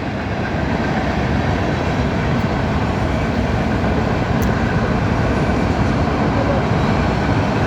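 Freight train rolling past: a steady rumble and rattle of wheels and cars on the rails.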